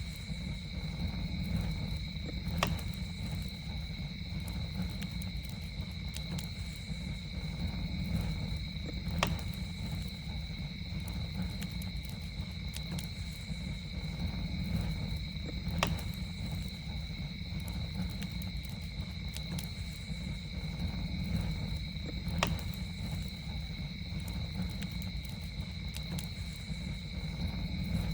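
Campfire burning with a low steady rumble and scattered crackles, with a sharp pop about every six to seven seconds. A steady, unbroken high insect trill, like crickets, sounds over it throughout.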